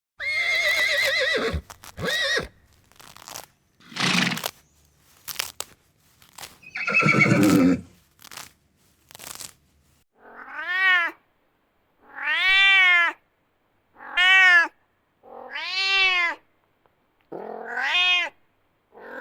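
Cat meowing: after a few longer calls and noisy bursts, a run of short meows, each rising and falling in pitch, repeats about every two seconds.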